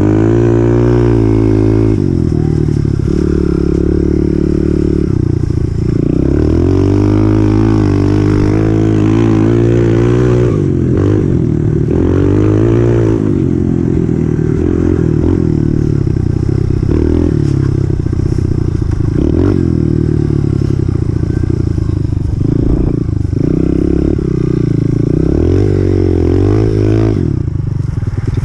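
2018 Honda CRF125F dirt bike's air-cooled 125 cc single-cylinder four-stroke engine under way, revving up and dropping back over and over as the rider works the throttle and gears.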